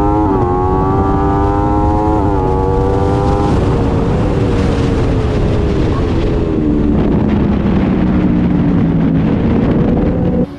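Aprilia RSV4 superbike's V4 engine accelerating hard through two upshifts, with the pitch dropping sharply at each change. It then holds steady and winds down as the bike slows, under heavy wind rush.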